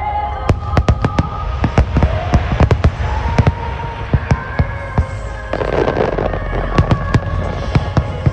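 Aerial fireworks bursting in rapid succession, a string of sharp bangs with a patch of dense crackling a little past halfway, over music with long held notes.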